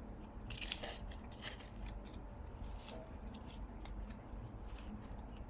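Faint snips and light rustles of scissors cutting and handling paper, in scattered short strokes.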